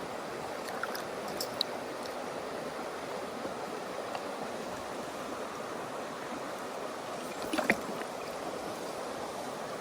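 Mountain stream rushing over rocks, a steady flowing-water sound, with a few light clicks and a sharper click about eight seconds in.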